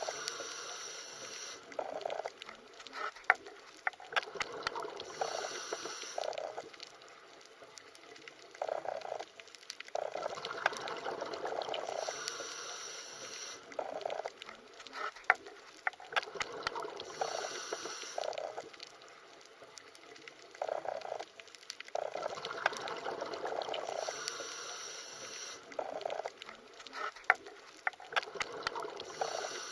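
Underwater ambience: bubbling, gurgling water that swells and fades every few seconds, with scattered sharp clicks.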